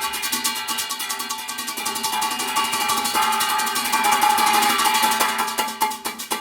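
Contemporary Korean instrumental music with gayageum: rapid, evenly repeated plucked and struck notes, about ten a second, with percussion. It swells in loudness around four to five seconds in and thins out near the end.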